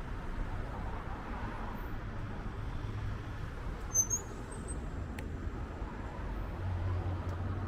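Steady outdoor street noise with a low rumble, as heard while riding a bicycle through city streets. A single short, high chirp sounds about four seconds in.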